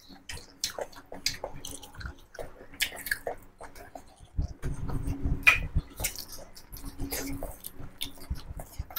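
Close-miked chewing and wet mouth smacking of people eating rice and chicken curry by hand, with soft squishing as fingers mix rice on the plates. Short clicks and smacks come throughout, with a louder, denser stretch about halfway through.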